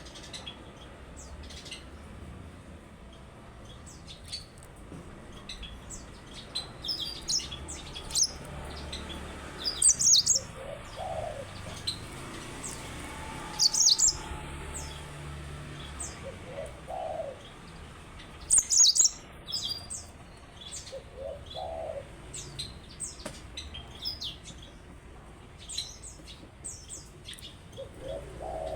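Yellow-fronted canary (Mozambique canary) singing: quick high chirps and trills in bursts, loudest three times, with a lower short call repeating every few seconds beneath.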